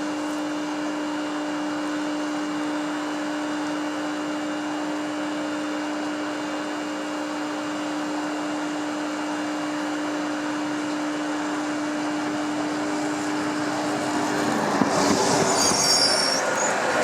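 Steady electric hum on one tone from a train at the station, then from about fifteen seconds in a train's rumble on the rails builds, with brief high-pitched wheel squeals near the end.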